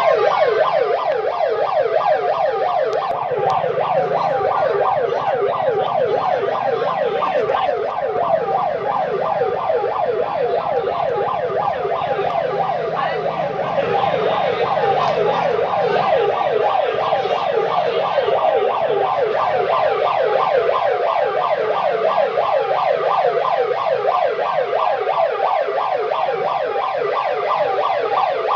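Electronic siren yelping rapidly, about four quick rising sweeps a second, steady and loud.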